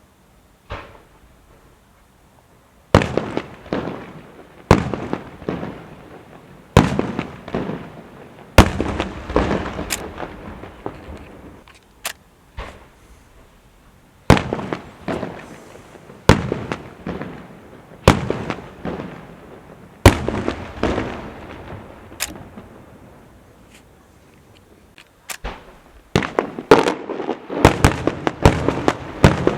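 Maltese feast fireworks going off: a string of loud bangs, each trailing off in a rolling echo, about one every second or two. The bangs pause briefly about three-quarters of the way through, then come faster and closer together near the end.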